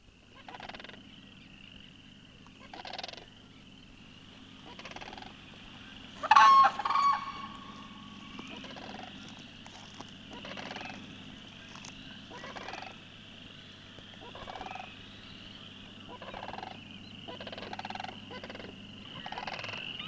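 Wild birds calling, with a short call every second or two and one louder call about six seconds in, over a steady high trill.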